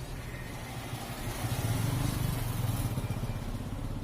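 Kirloskar diesel engine running with a fast, even low thudding that grows louder for a second or so in the middle.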